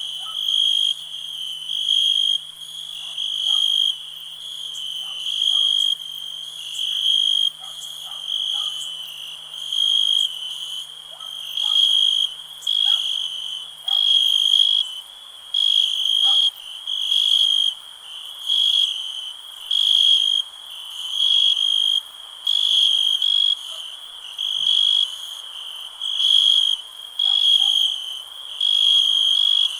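A cricket chirping, one high pulsing trill repeated steadily about every second and a quarter over a faint background hiss.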